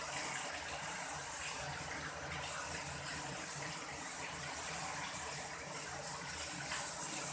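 Strong wind blowing in a steady rush that swells and eases slightly.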